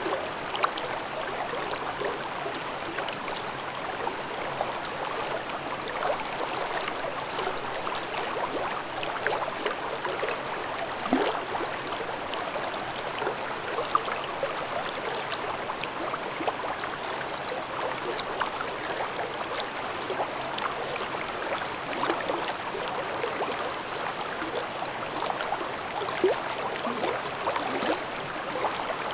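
Shallow mountain stream babbling over rocks: a steady rush of water with many small splashes and gurgles throughout.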